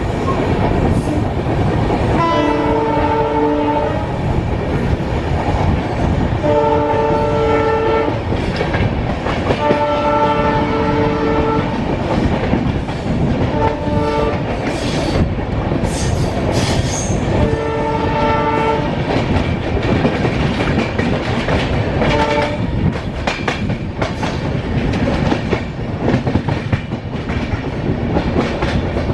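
A locomotive horn sounds repeatedly, mostly in long blasts of one to two seconds with a couple of short toots between them. Under it runs the steady rumble and clickety-clack of a train moving at speed, with sharp clicks from the wheels over the rails in the second half.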